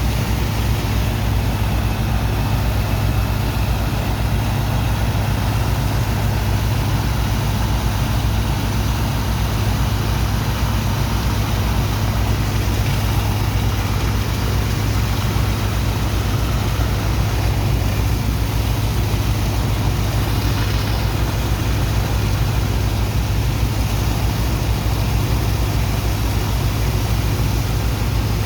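Heavy diesel engine of a sand-dredging pump running steadily: a deep, even drone with a broad rushing hiss over it, unchanging throughout.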